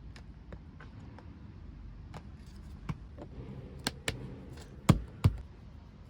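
Scattered clicks and knocks of a low folding camping table being handled as its legs are pushed in, with two sharp knocks in quick succession about five seconds in.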